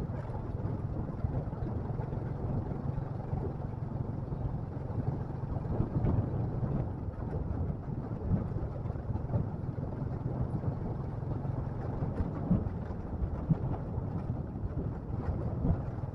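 Motorcycle engine running at a steady pace while riding, its low hum held even, with wind noise on the microphone. A few short knocks stand out now and then.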